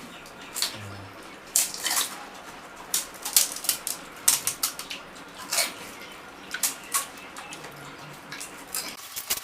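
People eating pani puri fast: crisp puri shells crunching and the spiced water slurped, in many irregular short, sharp crunches with wet sounds.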